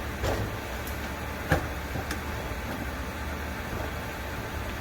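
A few light metal clicks as a washer and hand tools are handled on the shock mount, over a steady low hum.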